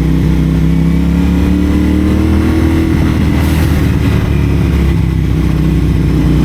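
CFMoto 450SR parallel-twin engine running through a Yoshimura AT2 slip-on exhaust at low, fairly steady revs. The pitch rises gently and then eases off again about halfway through.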